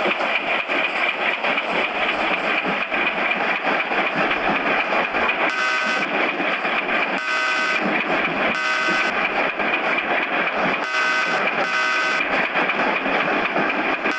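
Loud, steady running noise of a train, with a string of short horn blasts, about five of them half a second each, from about the middle of the stretch onward.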